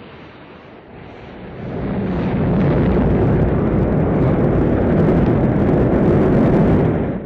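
Rocket launch: a low rumble that swells over the first two seconds or so into a loud, steady rumbling noise of the rocket engines.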